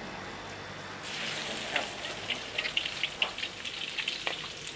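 Chopped garlic dropped into hot oil in a wok. About a second in it starts sizzling, and crackles and pops run on through the rest.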